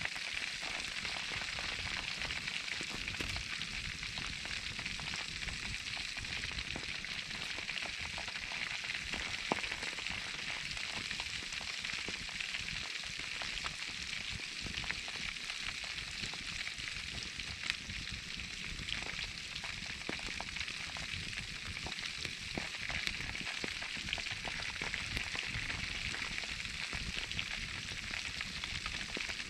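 Whole pork belly wrapped in foil sizzling in a wood fire: a steady hiss with scattered small crackles and a few sharper pops.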